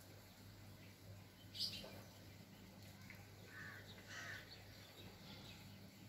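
Faint, distant bird calls: a short sharp call about a second and a half in, then two lower calls around four seconds, over a faint steady low hum.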